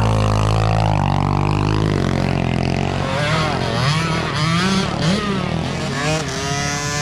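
Several small dirt bike engines revving, their pitch rising and falling as the throttles open and close. In the first two seconds a steadier low engine drone dominates.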